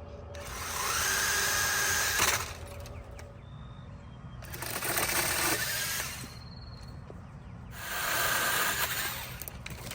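DeWalt 60-volt battery pole saw's chain saw head run in three short bursts of about two seconds each, its motor spinning up with a rising whine on the first trigger pull.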